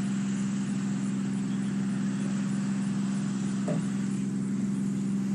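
Steady low mechanical hum at one unchanging pitch, with a faint hiss above it, like a motor running at constant speed.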